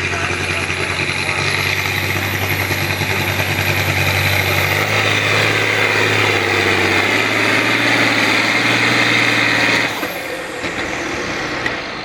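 A pulling truck or tractor engine running loud and steady, with a thin high whine rising over the first few seconds. It drops off suddenly about ten seconds in.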